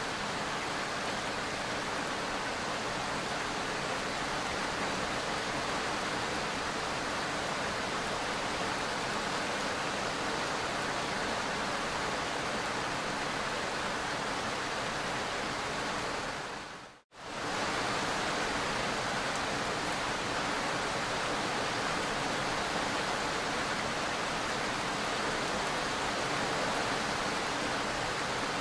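Heavy rain falling, a steady, even hiss that drops out abruptly for a moment a little past halfway through and then resumes.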